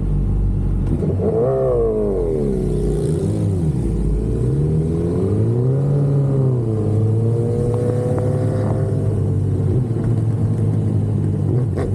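Sport motorcycle engine revving up and down: the pitch rises sharply about a second and a half in, drops, climbs again and then holds steady, over low rumble.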